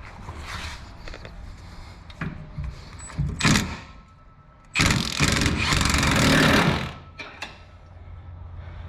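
An impact wrench runs in one burst of about two seconds, after a shorter loud rattle a second or so before, tightening a rear shock bolt on a Ford F-150.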